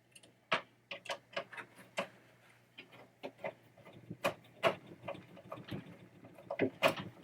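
Irregular small metal clicks and taps from a screwdriver starting a screw into a pinball trap door mechanism, a few every second with a sharper tap about half a second in and a cluster near the end.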